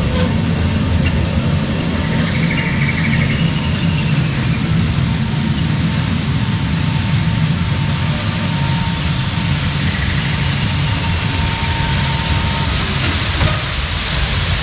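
Small tourist train rolling steadily along: a continuous low rumble, with a faint thin whine through the middle stretch.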